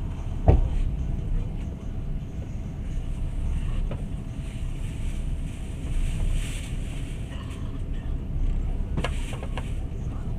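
Passenger train running, a steady low rumble heard from inside the carriage, with a sharp knock about half a second in and a few quick clicks near the end.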